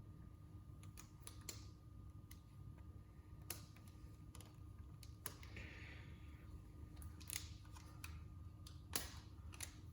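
Faint handling noises of small objects being moved about: several sharp, scattered clicks and a short rustle about five and a half seconds in, over a low steady hum.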